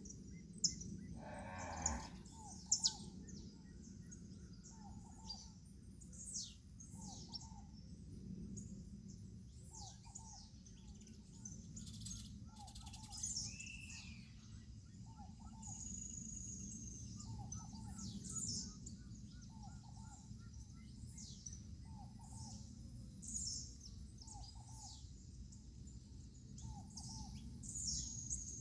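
Birds calling at dawn: many quick, high, falling chirps from several small birds, and a lower short call repeating about every two seconds, over a steady low background rumble.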